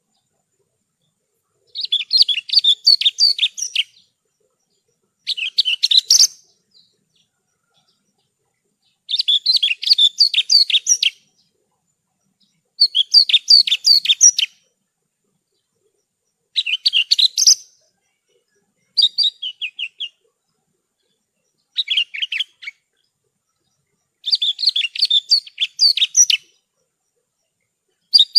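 A branjangan (Javan bush lark) singing in short phrases of rapid, high chirping notes, each phrase lasting one to two seconds, with about nine phrases separated by silent gaps.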